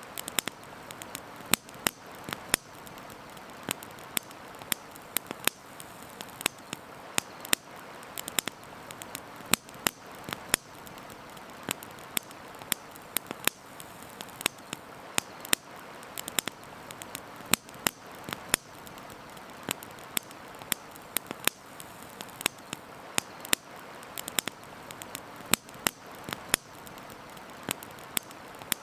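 Wood fire crackling, with sharp irregular pops and snaps several times a second over a steady background hiss.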